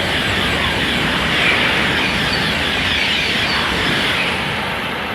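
TGV high-speed train passing at low speed: a steady rush of rolling and wheel-on-rail noise that slowly fades near the end.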